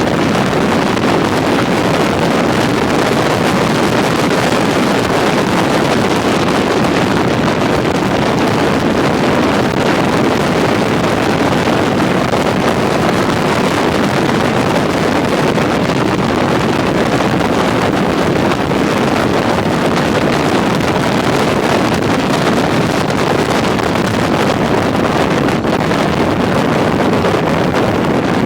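Steady wind rush over the microphone of a touring motorcycle on the move, with vehicle running noise blended in beneath. It holds level throughout, with no distinct engine note or change in speed.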